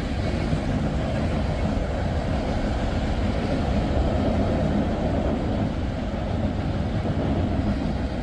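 Freight train cars rolling past close by: a steady rumble of wheels on rail that does not let up.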